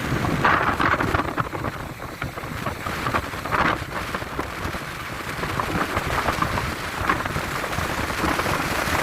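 Heavy wind of around 60 km/h blowing in gusts and buffeting the microphone, a rough rushing noise with a low rumble that swells a little under a second in and again about three and a half seconds in.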